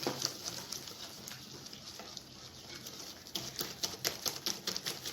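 Egg batter being mixed by hand in a bowl, the utensil scraping and clicking against the bowl's side. The clicks come faster and louder over the last two seconds.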